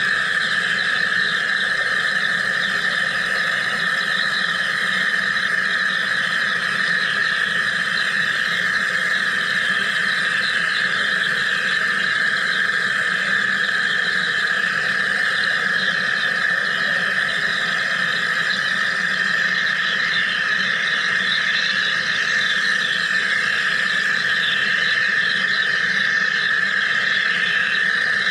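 Wire EDM machine cutting: a steady high-pitched whine with a fine crackling hiss above it.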